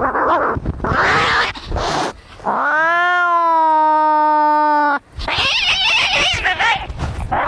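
Cats fighting: harsh, rasping cries, then a long, drawn-out yowl held for about two and a half seconds, rising at first and then steady, followed by more harsh, noisy screeching.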